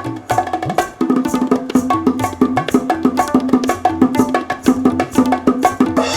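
Hand-drum percussion of bongos, cajon, tabla and kanjira playing a fast, dense rhythm of sharp strokes, with some low drum notes that bend in pitch.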